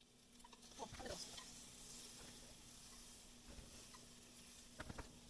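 Faint sizzling of okonomiyaki cooking on a hot plate turned down low, with a few light taps and rustles about a second in and near the end.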